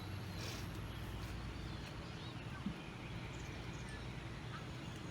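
Outdoor background hiss with a few faint bird chirps and one soft knock near the middle.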